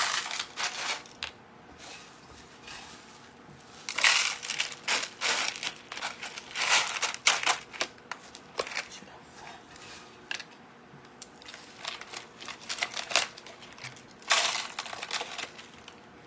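Dry stuffing being handled and packed by hand, crunching and crackling in several bursts with short pauses between.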